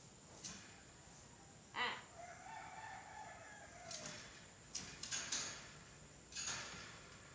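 Nias hill myna calling: a series of about five loud, separate calls, with a sharp cry followed by a held whistled note about two seconds in, a quick cluster of calls around five seconds, and one more near the end.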